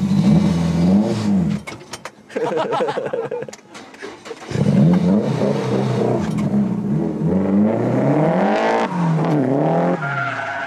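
A drift car's engine revving hard, its pitch climbing and falling again and again as it accelerates and shifts, with two short drops in level about two and four seconds in.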